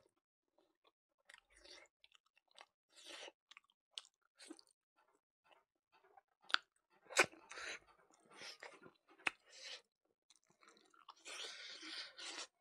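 Close-miked chewing of a mouthful of pork and rice, in irregular short bursts. A few sharper crunches stand out about six to nine seconds in, and a longer stretch of chewing noise comes near the end.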